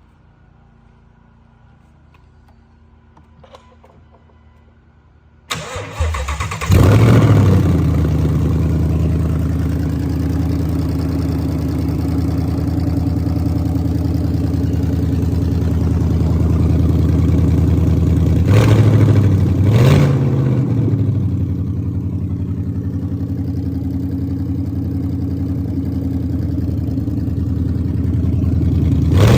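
Ford Gen 3 5.0 Coyote DOHC V8 starting: after about five seconds of quiet the starter cranks briefly, and the engine catches with a rev flare and settles into a steady idle. About halfway through it is blipped twice, quick rises in revs, before returning to idle.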